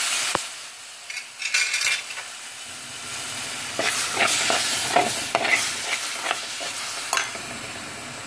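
Spiced onion-and-masala gravy base for fish curry frying in a chatti and being stirred with a spoon, sizzling under repeated scraping strokes. A loud hiss from tamarind water just poured into the hot masala cuts off just after the start.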